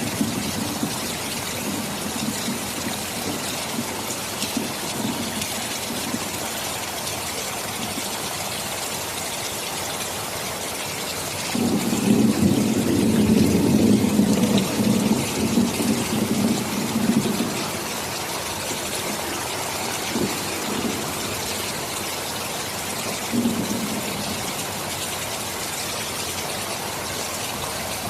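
Steady rain hiss with thunder. A loud low rumble of thunder starts suddenly about twelve seconds in and rolls on for about six seconds. Fainter rumbles come at the start and briefly later on.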